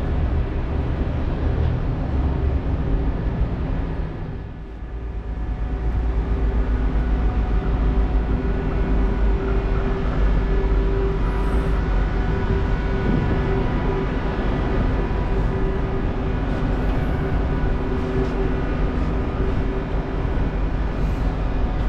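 Steady low rumble of vehicles in a city street, with a steady hum over it; the sound briefly drops away about four seconds in.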